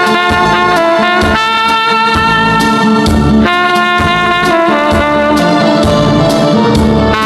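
Tenor saxophone playing a melody of long held notes over a trot backing track with bass and drums.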